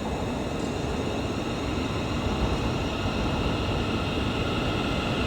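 Scotrail Class 380 electric multiple-unit train running in the station: a steady rumble with a faint high hum, gradually getting louder.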